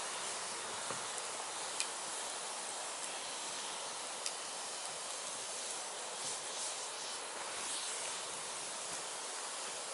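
Firewood burning: a steady hiss of flames with scattered sharp crackles and pops, two of them louder, about two and four seconds in.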